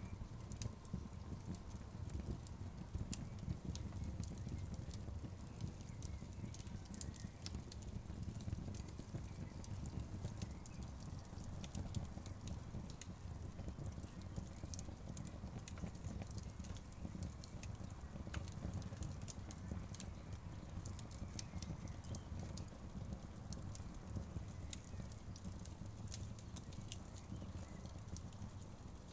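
Wood fire crackling in an outdoor fireplace: frequent sharp pops and snaps from the burning logs over a steady low rumble of the flames.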